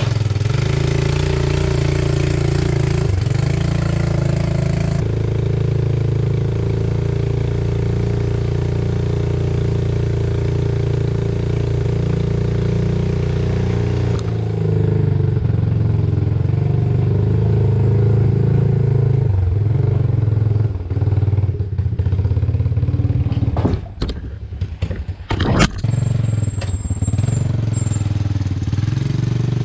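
Yamaha WaveVenture jet ski's 1100 cc three-cylinder engine running steadily, with a few sharp noisy bursts about 24 to 26 seconds in.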